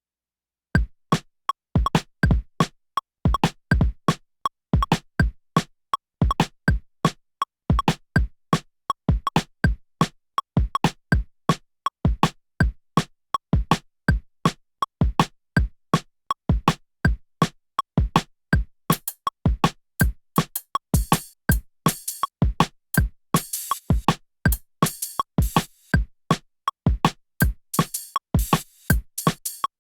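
Drum-and-bass beat programmed on a Teenage Engineering OP-XY: sharp, punchy drum hits in a fast steady pattern start a little under a second in. Bright, crisp high hits like hi-hats or cymbals join about two-thirds of the way through and thicken the beat.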